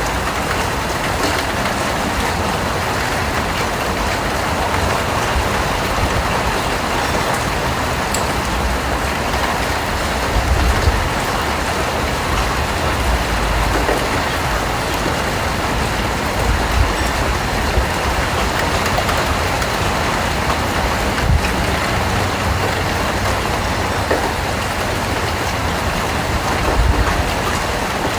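Steady rain falling, an even hiss of many drops, with a few brief low thumps scattered through it.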